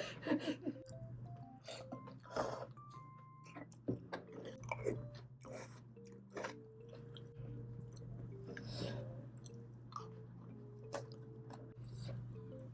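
Close-miked chewing and biting, with small wet mouth smacks and clicks at uneven intervals, over soft background music with held notes.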